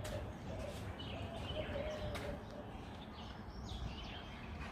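Outdoor background rumble with a few faint, scattered bird chirps.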